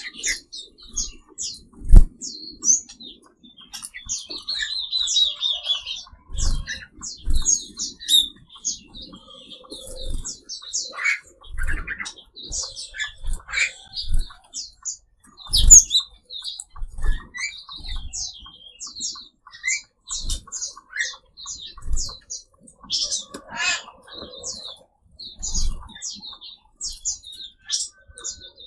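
Mixed songbirds in an aviary chirping and calling rapidly and continuously, many short high chirps overlapping, with a buzzy falling trill a few seconds in. Short dull thumps come every second or two, the loudest about two seconds in and about halfway through.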